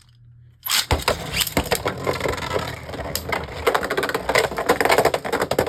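Two Beyblade Burst spinning tops going into a plastic stadium, then spinning and clashing with a dense, rapid clicking and rattling. It starts suddenly about a second in.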